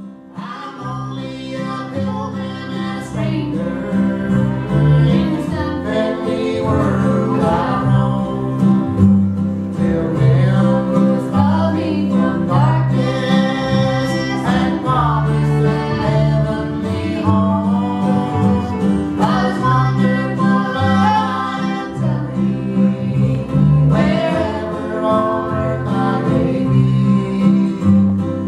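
Old-time string band playing live, with fiddle, mandolin, guitar and bass under singing. The music rises in level over the first couple of seconds and then plays on steadily.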